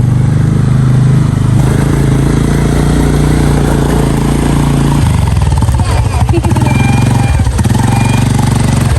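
ATV engine running steadily while riding; its note shifts lower and rougher about halfway through.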